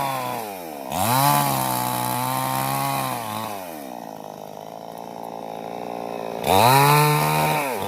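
Two-stroke chainsaw engine revved up about a second in and held at high speed, dropping back to a lower, quieter note around three seconds in. It is revved up again near the end and then falls away.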